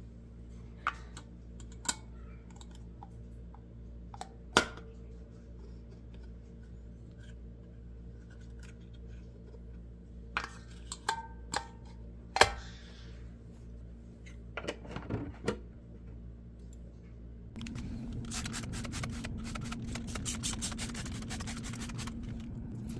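Plastic milk jugs and their caps being handled: scattered clicks, knocks and rubbing over a steady low hum. About three quarters of the way in, a dense, fast rattling starts and runs on.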